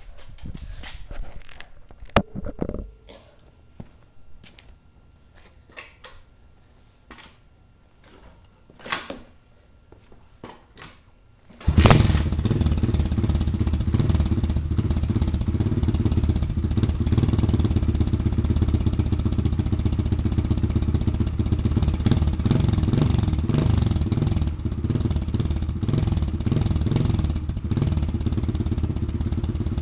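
2004 Giovanni 110cc Chinese dirt bike's single-cylinder four-stroke engine being started on choke. A few scattered clicks and knocks come first, then about twelve seconds in the engine fires suddenly and runs steadily.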